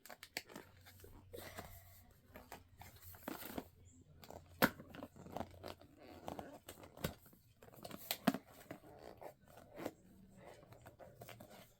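Hands opening toy packaging, cardboard and plastic: intermittent rustling, crinkling and tearing with scattered sharp clicks.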